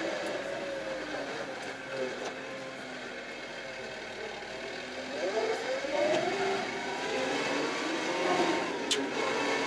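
Kioti RX7320 tractor's diesel engine running while pushing snow, revving up about five seconds in and holding at higher revs. A single sharp click near the end.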